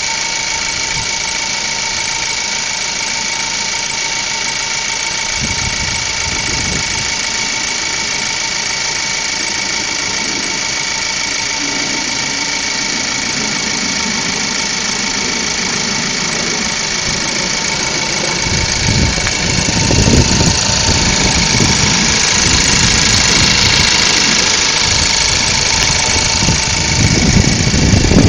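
2012 Ford Focus engine running steadily: an even hiss with a faint steady whine. About two-thirds of the way through, a low uneven rumble joins in and the sound gets louder.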